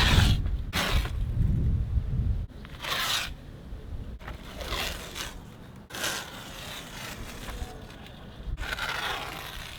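Masking tape being pulled off the roll and laid along a boat hull's waterline: about six short ripping rasps with pauses between them. Low wind rumble on the microphone in the first couple of seconds.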